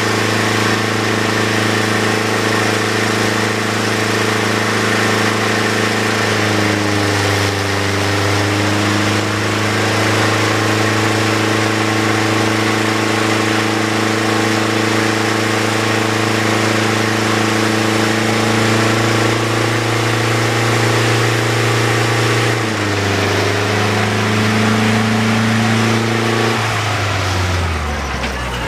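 An engine idles steadily, its pitch wavering briefly twice, then winds down and stops near the end.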